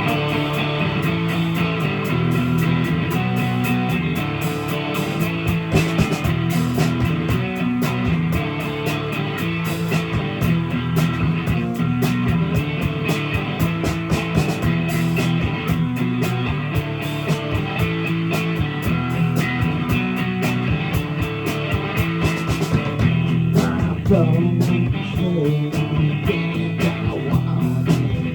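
Live blues-rock band playing an instrumental passage: guitar over bass and a drum kit keeping a steady beat.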